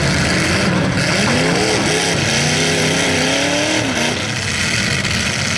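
Demolition derby car engines running hard together, one revving up and down between about one and four seconds in.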